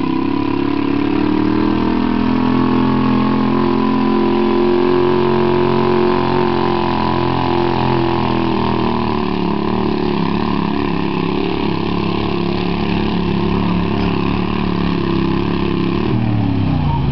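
Garden pulling tractor's engine running at full throttle under heavy load as it drags a weight sled. Its pitch sags slowly as the load builds, then falls away sharply near the end as the pull finishes.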